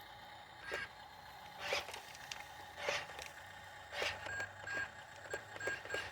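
Inside a truck cab: a sharp click about once a second, with short high beeps repeating between the clicks, over a faint low engine hum.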